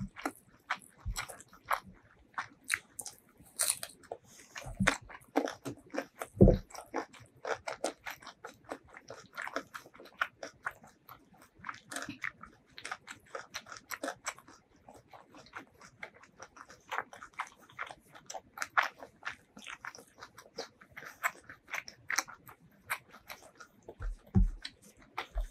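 A person chewing food close to the microphone with the mouth closed: a steady run of moist clicks and crunches. A few low thumps stand out, about six seconds in and again near the end.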